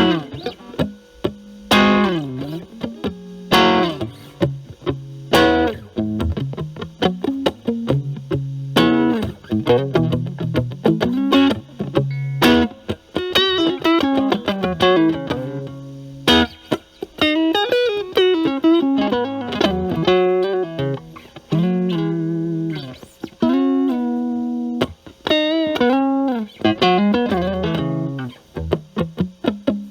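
Electric guitar, a Stratocaster with single-coil pickups, played through a Metal Pedals Rawhide overdrive into a Marshall Valvestate amp's clean channel. With the pedal's gain at maximum, the tone is cleaned up. A few struck chords come first, then single-note phrases with bends and vibrato.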